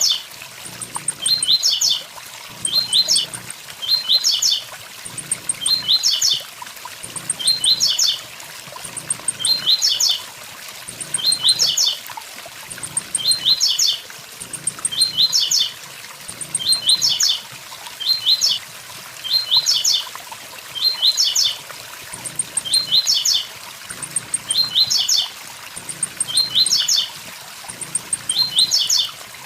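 Blue-black grassquit (tiziu) singing its short 'tui tui zel zel' phrase over and over, about once a second at an even pace, over the steady rush of a waterfall.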